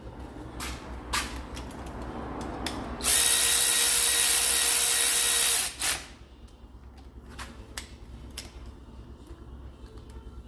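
A power tool runs in one steady burst of about three seconds, with a few metallic knocks and clicks of work around it.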